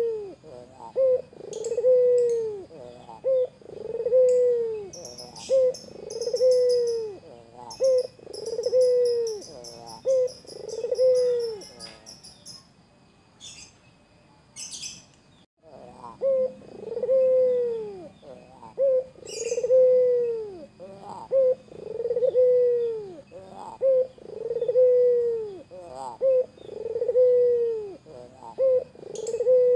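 White Barbary dove (ringed turtle dove) cooing over and over, each coo a short note followed by a long rolling one, about one every two seconds. The cooing breaks off for a few seconds past the middle, then starts again.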